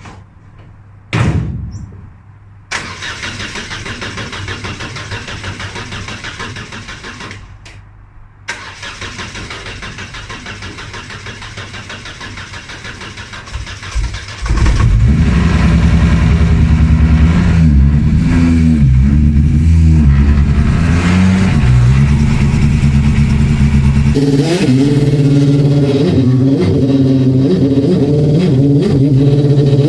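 A thump about a second in, then a car engine cranked on its starter for about five seconds, a short pause, cranked again, and catching about fourteen seconds in. It then runs loud with the revs rising and falling, its note shifting higher a few seconds before the end.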